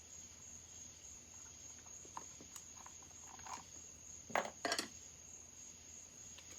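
A steady high-pitched cricket trill, with a few faint taps and then two sharp clinks close together about two-thirds of the way in, from tools and small metal parts being handled on a workbench.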